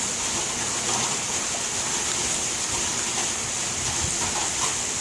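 Steady heavy rain, an even hiss with no break and no clear thunderclap.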